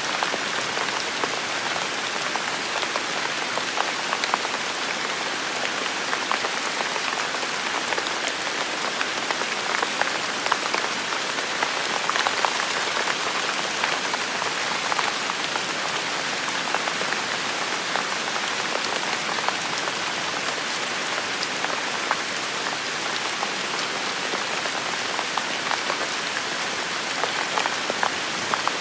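Heavy rain falling steadily, a dense hiss of many drops with individual drops ticking through it.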